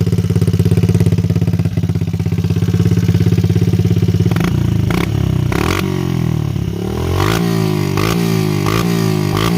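Pit bike engine idling steadily, then revved up and down repeatedly from about four and a half seconds in, with a few sharp clicks among the revs.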